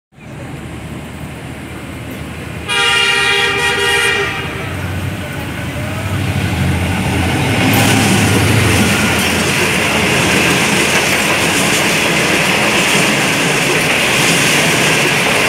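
Rumble of a moving passenger train heard from an open coach door. About three seconds in, a diesel locomotive horn sounds for about a second and a half. The noise then swells into a steady loud rush as an oncoming train's locomotive and coaches pass close alongside.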